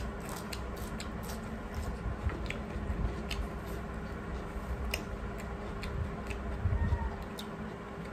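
Close-miked chewing by two people eating cucumber slices, with irregular sharp wet mouth clicks.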